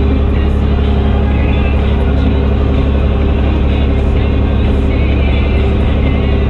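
Fendt Favorit 926 Vario tractor's six-cylinder diesel engine running with an open exhaust, a deep, even drone at steady revs.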